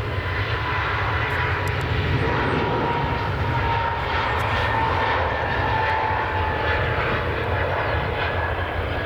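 Jet airliner engines running, a steady rumble and rush with a high whine that drifts slightly in pitch.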